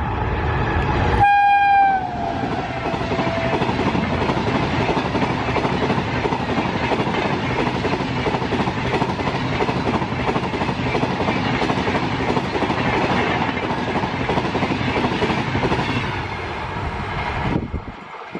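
Indian electric locomotive horn sounding as the train arrives, its pitch sliding down as the locomotive passes about two seconds in. Then the steady rush and wheel clatter of passenger coaches speeding past, easing off near the end.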